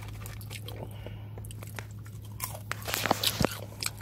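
A person biting and chewing crispy KFC Secret Recipe fries close to the microphone: irregular crunching that gets louder and busier about two and a half seconds in.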